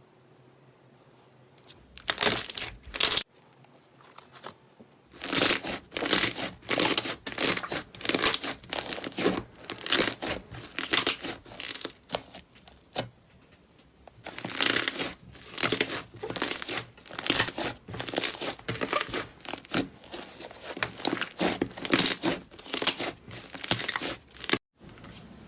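Slime being pressed and pulled by hand: a run of short, sharp, irregular noises, several a second, starting about two seconds in, pausing twice and stopping abruptly near the end.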